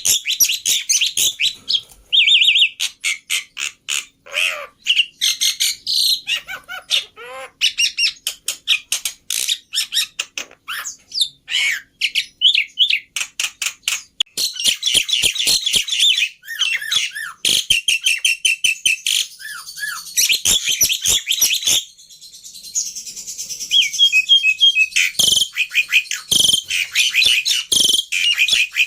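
Black-winged myna (jalak putih) singing: a fast, varied stream of chattering notes, sharp clicks, whistles and trills.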